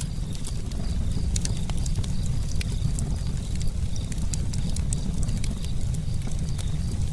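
Campfire crackling: frequent irregular sharp pops and snaps over a steady low rumble of the burning wood.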